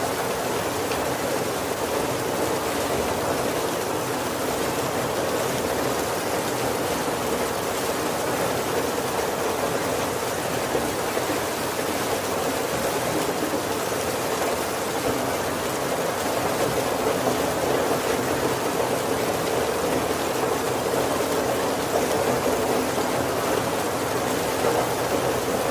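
Heavy rain falling steadily on a wooden carriage roof and windows: an even hiss with no breaks.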